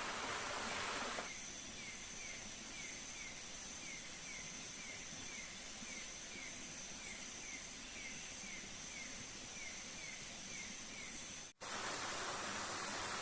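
Forest ambience: a steady high insect drone with a short chirp, falling in pitch, repeated about twice a second. A rushing waterfall can be heard at the start and again near the end after a brief cut.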